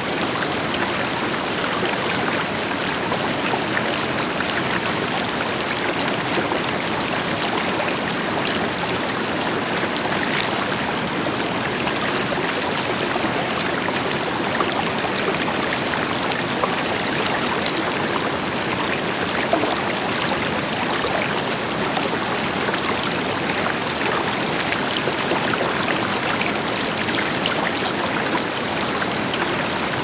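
River water flowing steadily over rocks, with splashing and trickling, over the deeper steady rush of a waterfall.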